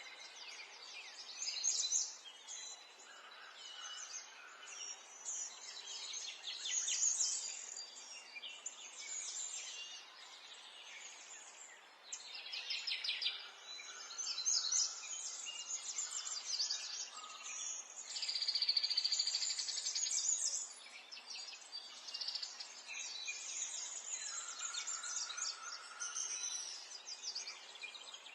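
Small songbirds chirping and trilling continuously, several calls overlapping, with one long, fast trill about two-thirds of the way in.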